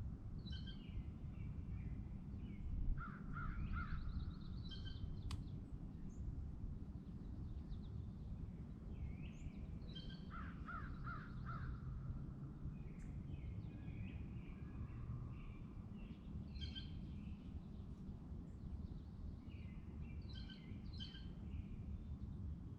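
Lakeside outdoor ambience: several birds calling repeatedly, some in short rapid series, over a steady low background rumble. A single sharp click sounds about five seconds in.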